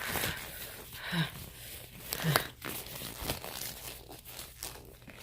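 Glove crinkling and rustling as it is handled, with a few sharp clicks in between.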